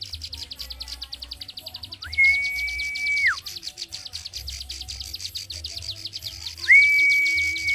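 Songbird singing a continuous fast series of high clicks, about ten a second. Long, level whistles break in twice, each rising in, holding for over a second and dropping off at the end.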